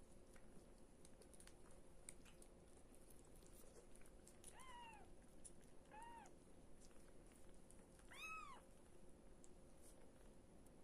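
Sphynx cat giving three short, high mews a couple of seconds apart, the last one the loudest, over faint clicks and rustling.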